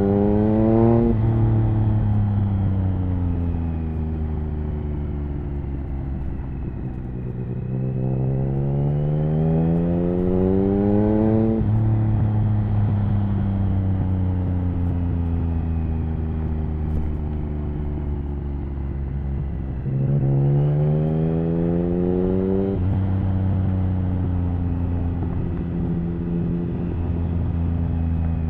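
Triumph Speed Triple 1050's three-cylinder engine through an HP Corse Hydroform exhaust, ridden: the note climbs hard under throttle twice, about a third of the way in and again about two-thirds in, each time dropping off sharply, and falls away slowly in between as the bike rolls off.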